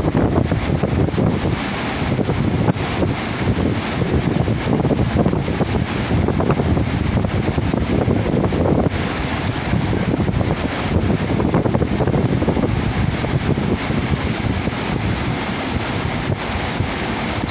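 Steady rushing water of a shipboard FlowRider surf-simulator wave, mixed with wind buffeting the microphone.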